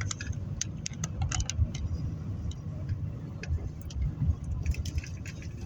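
Car driving slowly, heard from inside the cabin: a steady low rumble of engine and road noise, with scattered light clicks and rattles.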